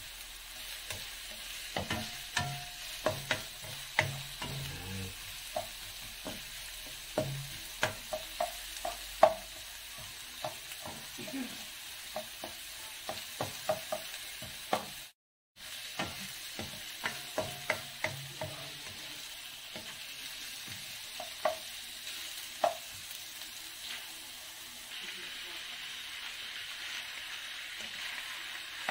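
Onions and garlic sizzling in oil in a nonstick wok, with a plastic spatula clicking and scraping against the pan as they are stirred. The sound drops out for a moment about halfway, and over the last few seconds the sizzle grows stronger as cut pork fries in the pan.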